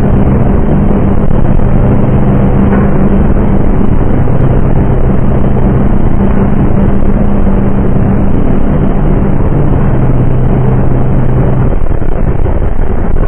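Diesel locomotive engine running with a loud, steady drone over a heavy rumble. The engine drone drops away about twelve seconds in, leaving the rumble.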